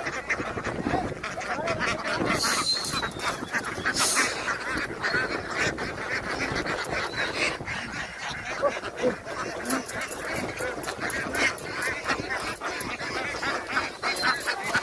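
A flock of domestic ducks quacking and honking continuously, with many short clicks and taps mixed in.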